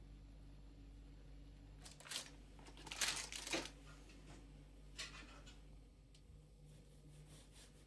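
A few brief rustling, crinkling handling noises, the loudest a short cluster about three seconds in, with smaller ones just before and about five seconds in.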